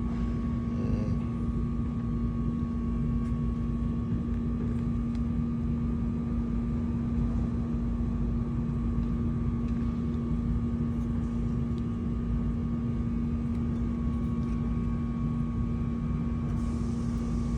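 Steady mechanical hum with a constant low tone and a fainter higher tone over a low rumble, unchanging throughout, with a few faint clicks.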